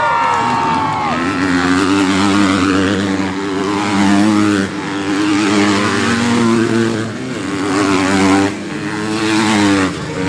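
Motocross bike engines running hard on the track. The pitch climbs, then drops sharply about four times as the riders accelerate and shift.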